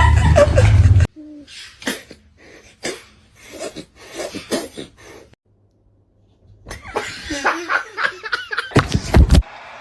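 Human laughter, loud for about the first second and then cut off abruptly. Quieter short sounds follow, broken by a pause of about a second, and a loud burst comes near the end.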